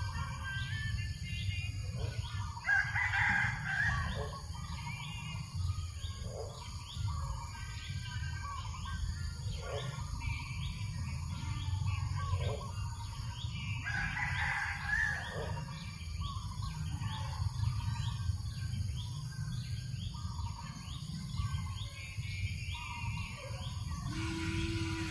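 A rooster crows twice, about three seconds in and again about fourteen seconds in, over fast, steady chirping of small birds and a low rumble of breeze. A steady low hum starts near the end.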